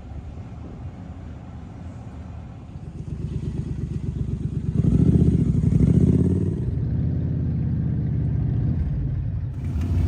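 Motorcycle engine running, growing louder from about three seconds in and loudest from about five seconds on, as a bike comes close.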